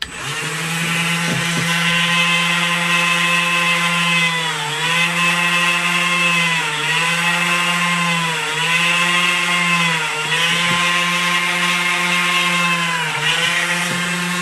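Small Dremel rotary tool with a fine drill bit running at speed with a steady whine, drilling stitching holes through glued leather. Its pitch dips briefly five times as the motor slows under load while the bit bores through the leather.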